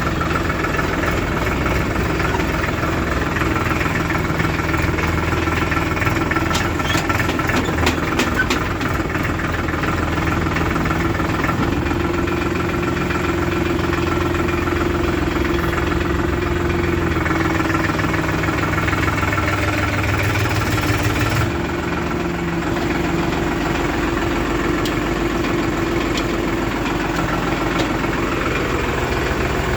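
Diesel engines of a backhoe loader and farm tractors running steadily at idle and light load, with a knocking diesel note. The engine sound shifts abruptly about two-thirds of the way through.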